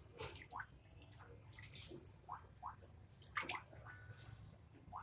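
Water splashing and dripping in small amounts: repeated short splashes with several quick rising drip sounds.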